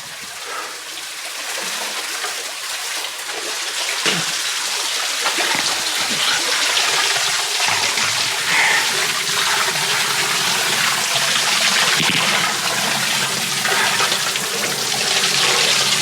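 Water splashing and sloshing around a person swimming through a deep pool, building louder over the first several seconds.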